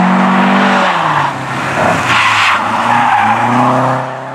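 Rally car engine running hard at high revs. The pitch drops about a second in and climbs again, as the driver lifts off and accelerates back onto the throttle. Near the end it fades as the car moves away.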